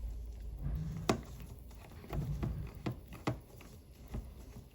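A few sharp, light clicks and taps from small watchmaking tools and the watch movement being handled in a movement holder, four clicks spread irregularly over a few seconds.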